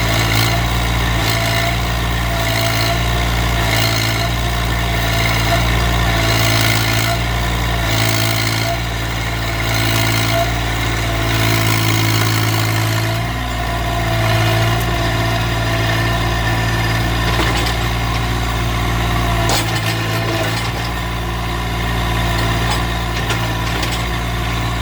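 Massey Ferguson GC1710 subcompact tractor's three-cylinder diesel running as its front loader pries at a stump, the engine note swelling and dipping every second or two as it takes load.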